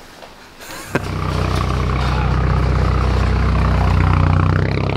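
A BMW 3 Series sedan's engine and exhaust start up suddenly about a second in and run with a deep, steady rumble, easing off slightly near the end.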